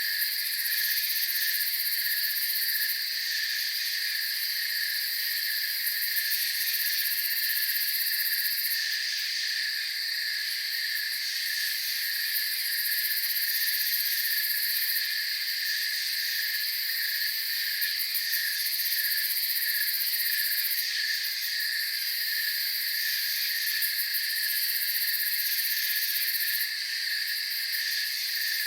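Night chorus of crickets chirping steadily, several layers at different high pitches, one of them pulsing evenly, with no let-up.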